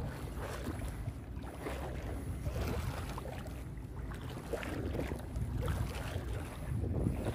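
Water sloshing and swishing around the legs of someone wading through thigh-deep swamp water, in uneven strides, with wind rumbling on the microphone.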